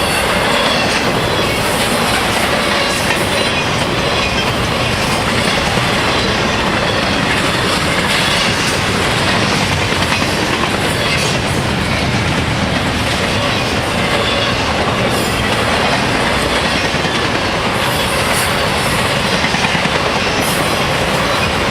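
Freight train cars rolling steadily past at close range, wheels clicking over the rail joints with a steady rumble.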